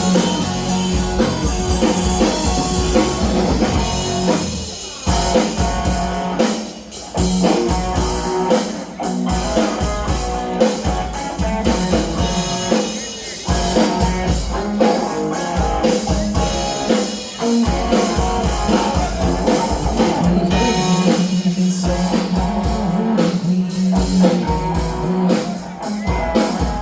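Rock band playing an instrumental break between verses, with drum kit and guitar.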